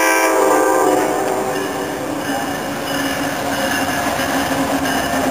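Amtrak diesel passenger locomotive sounding its horn chord, which stops about a second in. The engine and the train's running noise then grow louder as it approaches.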